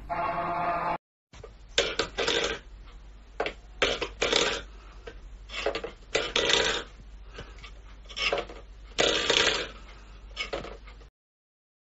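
Background music for about a second, cutting off. Then a metal food bowl, pushed and tipped by a cat's paw, scraping and clattering on a wooden floor in short bursts about once a second.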